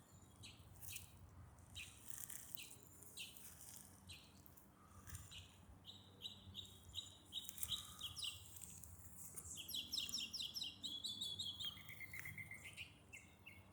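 Small birds chirping: scattered short high notes, then quick runs of notes and trills from about six seconds in.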